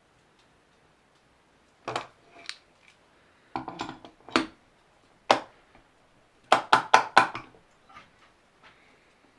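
Sharp knocks of hand tools striking wood, as single blows at first, then a quick run of about five blows about two-thirds of the way through.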